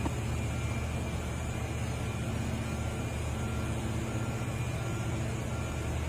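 Heavy diesel engine of a dump truck or excavator running steadily at low revs, a deep even rumble.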